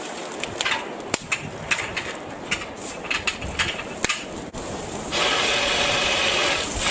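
Scattered clicks and snaps, then a BLACK+DECKER 18V cordless saw's electric motor runs steadily for about two seconds near the end.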